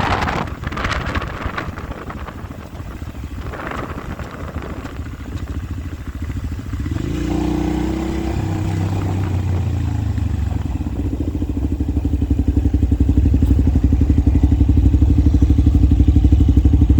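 Motorcycle engine running at a steady low speed, coming through more and more plainly after a few seconds of wind noise on the microphone and growing louder in the second half.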